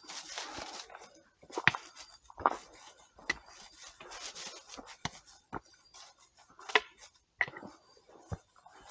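Footsteps on a forest trail: irregular crunches and snaps of leaf litter and twigs underfoot with rustling between them, loudest about two and a half seconds in and again near seven seconds.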